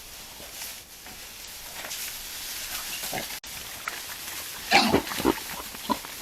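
Wild boar grunting: a few short grunts, with a louder cluster about five seconds in.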